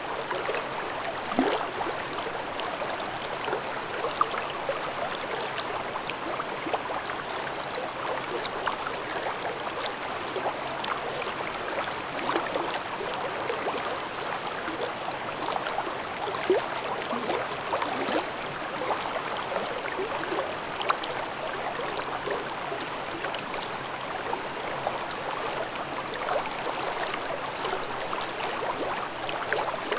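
Valley stream babbling over rocks: a steady rush of water with frequent small gurgles and splashes.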